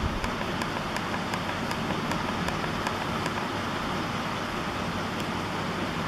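Steady rushing wind and road noise from riding an electric bike, with a faint light tick repeating about three times a second.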